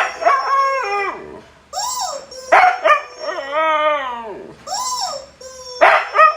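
Siberian husky howling and yowling in a run of long calls that slide up and down in pitch, with a steady tone held underneath.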